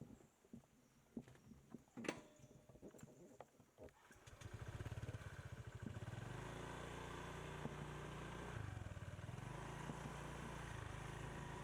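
Scattered light clicks and taps, with a sharper click about two seconds in. Then, about four seconds in, a motorbike engine comes up and runs steadily, its pitch stepping a few times.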